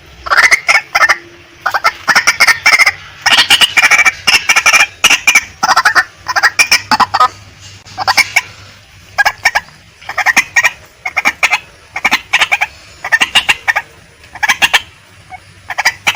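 Female white-breasted waterhen calling: loud clusters of rapid, clucking notes, each cluster under a second long, repeated about once a second.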